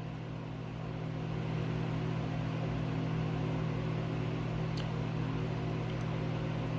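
Steady low mechanical hum over an even background hiss, with one faint click about five seconds in.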